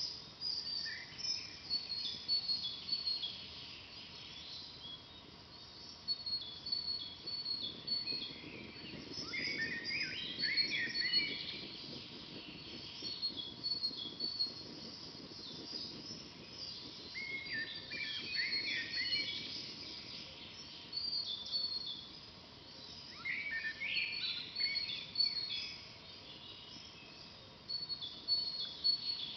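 Songbirds singing in a forest: a steady run of short, high repeated chirps, with fuller warbled song phrases every several seconds.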